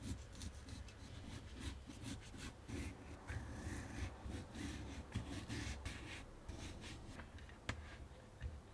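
Soft, continuous rubbing and scraping with scattered light ticks: hands or a utensil working food during kitchen preparation.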